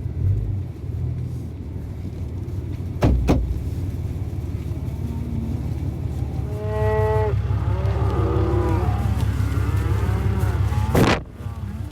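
Cows mooing: one long moo about six and a half seconds in, then several overlapping moos, over a steady low engine rumble. Two short sharp knocks, about three seconds in and near the end.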